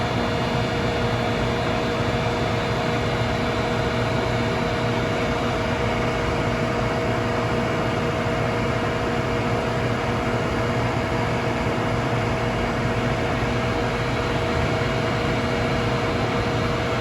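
Asquith RMD 16/60 CNC horizontal boring mill running under power: a steady machine hum with several constant tones, unchanging throughout.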